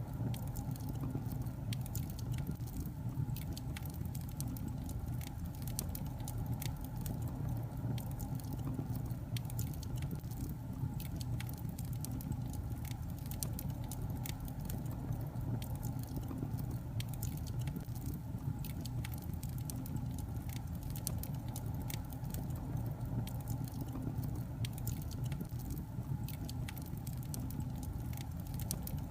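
Log fire burning in a fireplace, crackling and popping with frequent sharp snaps over a steady low rumble of flames.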